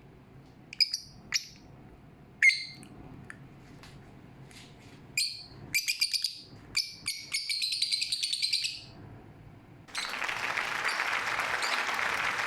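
Pet lovebird giving sharp, high chirps: a few single calls, then a fast run of chirps. A steady hiss starts near the end.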